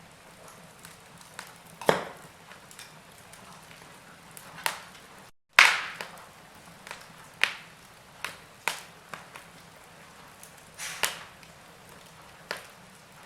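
Wood fire crackling: irregular sharp pops and snaps over a faint steady hiss. About five seconds in, the sound cuts out completely for an instant, then returns with the loudest pop.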